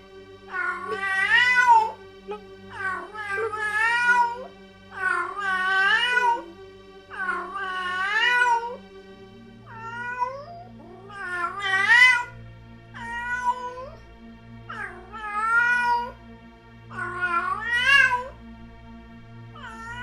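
Domestic cat meowing over and over, one drawn-out meow about every two seconds, each bending in pitch. A steady low music drone plays underneath and shifts to a lower note about nine seconds in.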